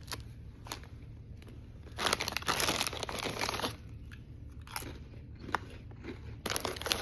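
Lay's Magic Masala potato chips being bitten and chewed: scattered crisp crunches, with a louder, dense stretch of crunching about two seconds in that lasts over a second, and more near the end.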